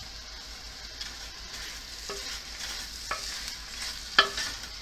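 Chicken pieces and chopped tomato sizzling in a pot while a wooden spatula stirs them, with a steady frying hiss and a few knocks of the spatula against the pot, the loudest near the end.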